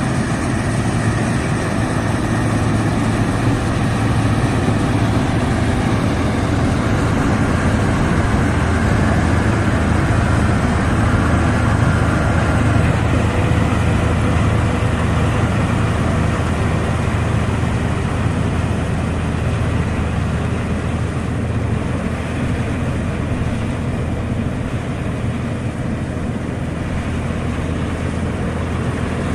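Taka Tech rice combine harvester running steadily under harvesting load, a continuous loud mechanical drone with a strong low engine hum that eases slightly in the last third.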